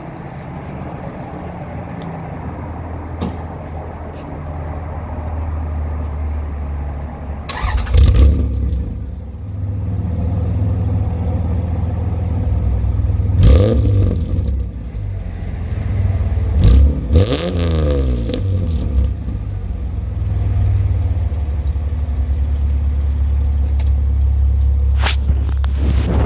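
Toyota Solara's 3.0 V6 (1MZ-FE) starting up and idling through stainless headers with no catalytic converter, a 2¼-inch exhaust and a MagnaFlow muffler, with no resonator. The idle is a steady low hum, broken by three quick throttle revs that rise and fall back.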